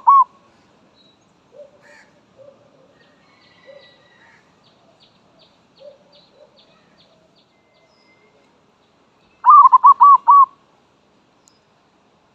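Zebra dove (merbok) calling close by: a loud run of five or six quick cooing notes about nine and a half seconds in, after a short burst of the same call at the very start. In between are faint low coos and faint high chirps from other birds farther off.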